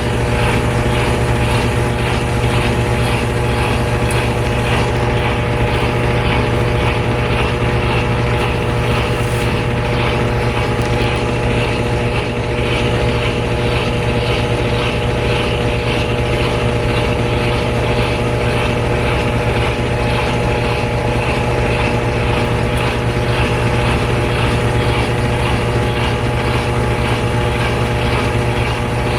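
GE Spacemaker laundry center's top-load washer in its final spin: the drum spinning at steady high speed with a constant motor whir and hum, unchanging throughout.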